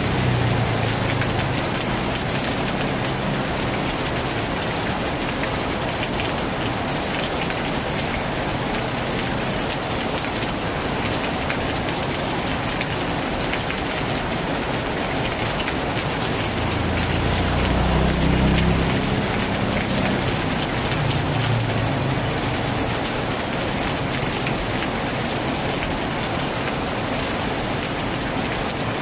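Steady heavy rain falling on a tin roof. About two-thirds of the way through, a low rumble swells and fades.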